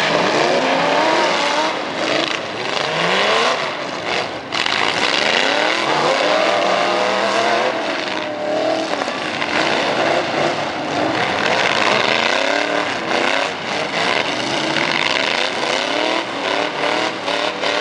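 Pickup truck engines with loud exhausts revving hard under racing load, their pitch climbing and dropping again and again.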